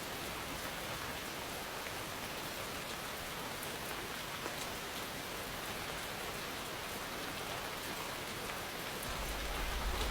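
Steady rain falling, a dense even patter with fine drop ticks. Near the end a low rumble of distant thunder begins to build.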